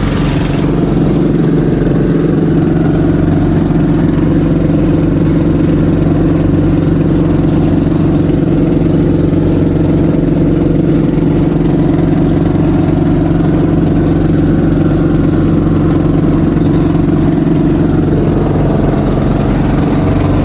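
Small fishing boat's engine running steadily at constant speed.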